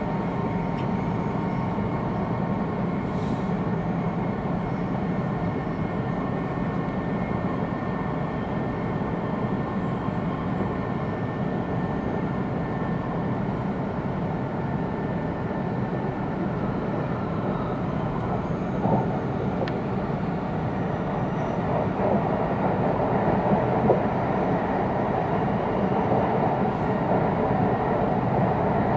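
Inside an E2-series Shinkansen car: the steady rumble and hiss of the train running on the line, with faint steady whines, a little louder in the last few seconds.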